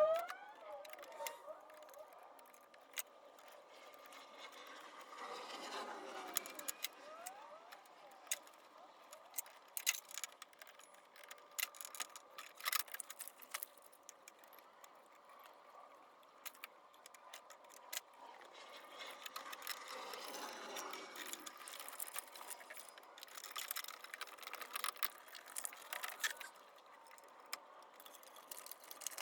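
Hand tools clicking and clinking on metal engine parts, with some ratcheting, in scattered sharp knocks.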